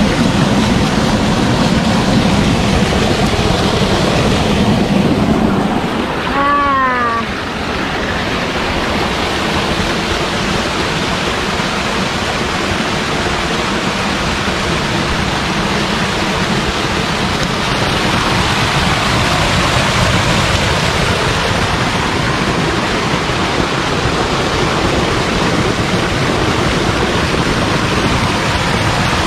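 Gumawang waterfall: water falling and rushing in a loud, steady noise. About seven seconds in, a short pitched sound like a brief voice rises over the noise.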